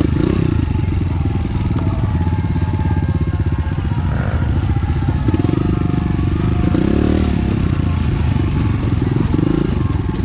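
Enduro motorcycle engine running close by while riding a dirt trail, its pitch rising and falling a few times as the throttle opens and closes.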